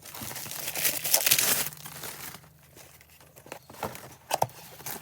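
Packaging being crinkled and torn open by hand, busiest in the first two seconds, then a few sharp clicks and rustles near the end.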